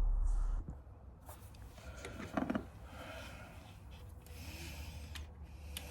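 Light rubbing and a few small knocks from engine parts and tools being handled, the loudest knock about two and a half seconds in. A low rumble drops away in the first half second.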